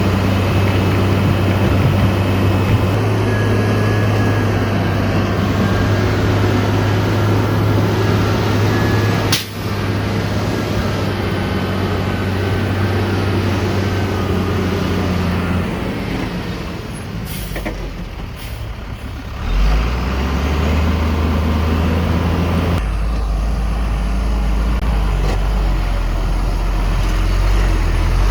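Heavy diesel engine of earth-moving machinery running steadily. Its hum drops to a lower pitch a little past halfway after a brief dip in loudness, and shifts again soon after. There is one sharp click about a third of the way in.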